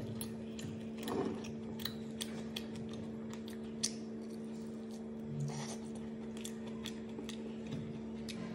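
Close-up eating sounds of fried chicken being bitten and chewed: irregular crisp clicks and crunches with soft wet mouth sounds, the sharpest click just before the middle. A steady low hum runs underneath.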